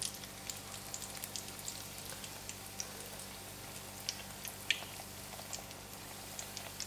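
Banana puri dough frying gently in oil over low heat: a soft sizzle with scattered small crackles and pops, and one sharper click about two-thirds of the way through.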